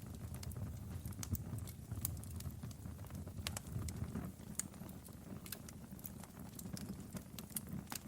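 Wood fire burning in a fireplace, with a low rumble of the flames and irregular sharp crackles and pops from the burning logs.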